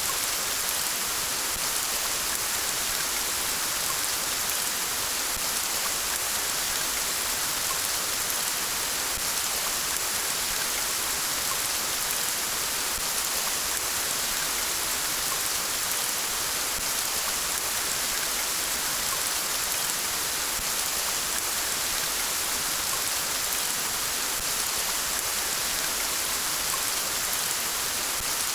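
Steady rain falling by a river, an even hiss of drops with no change in strength.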